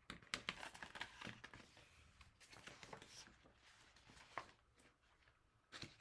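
Near silence in a small room, with faint rustles and light clicks of something being handled, a few in the first second or so and one more later.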